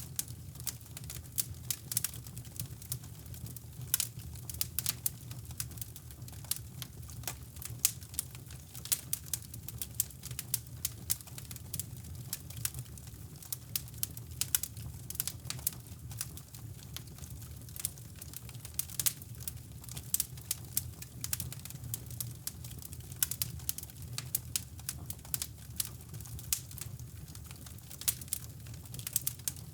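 Wood fire crackling in a fireplace: quick, irregular pops and snaps over a steady low brown-noise rumble.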